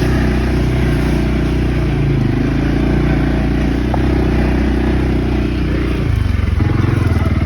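Engine of an off-road vehicle running steadily, then revving harder about six seconds in, with a faster, louder pulsing.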